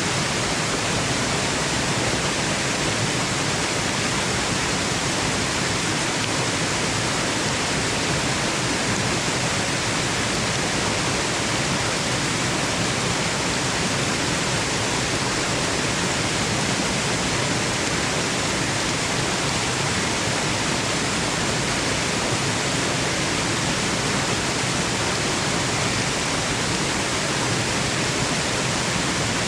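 Waterfall rushing, a steady, unchanging hiss of falling water used as white noise for sleep.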